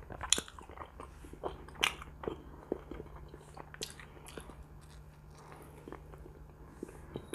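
Close-miked chewing and biting of roast pork and bread, with scattered sharp wet mouth clicks, most of them in the first few seconds, over a faint steady low hum.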